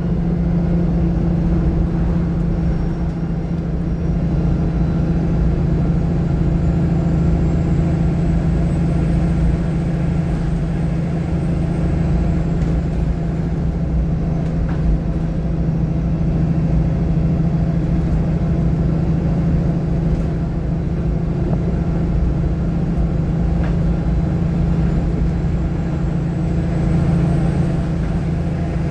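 VDL SB200 single-deck bus heard from the back row of the cabin, its engine and exhaust running with a steady low drone while under way. Mixed in is the strange exhaust noise, which sounds like air being trapped and then released through the gaps between the back-row seats.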